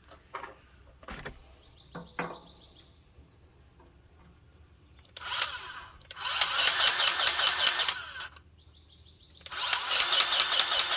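An 18-volt Ryobi cordless grease gun's motor pumping grease into a fitting on a wood chipper, after a few clicks. It runs in a short burst about five seconds in, then in two longer bursts of about two seconds each, with a fine even pulsing from the pump.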